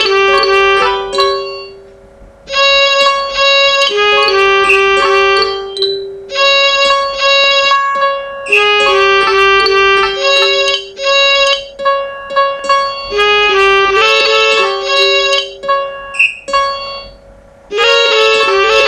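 Computer-generated MIDI music: many overlapping, fairly high notes played at once in dense phrases of a few seconds, with short breaks between them.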